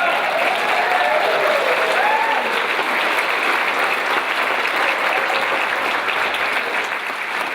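Audience applauding steadily, with a few whoops and cheers in the first two seconds.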